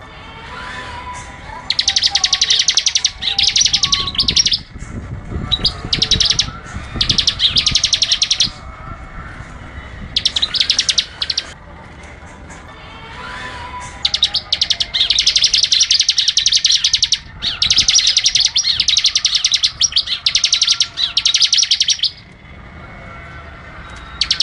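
Bar-winged prinia (ciblek) singing: loud, high, rapid trilling phrases about a second long, repeated in clusters with short pauses, with a long unbroken run of them in the second half.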